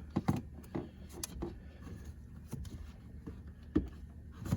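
Irregular clicks and knocks of hands handling plastic trim around a car seat, with a few sharper taps in the first half-second and near the end.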